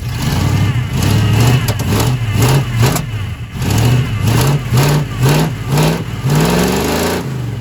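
Small-block 350 V8 in a 1980 Chevy K30 pickup, revved in a rapid series of short throttle blips, about two a second, with the engine pitch rising on each blip.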